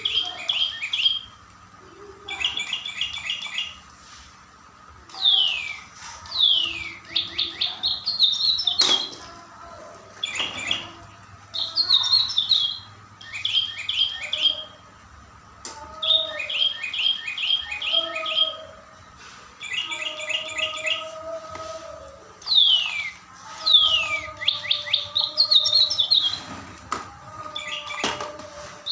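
A songbird singing in repeated phrases of rapid trilled notes and steep, falling whistles, each phrase a second or two long with short pauses between them.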